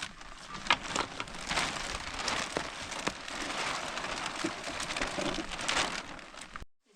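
Rain falling: a steady hiss dotted with many sharp drop ticks, cutting off abruptly near the end.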